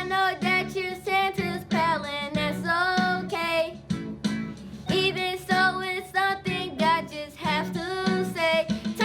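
A voice singing a song over plucked acoustic guitar accompaniment.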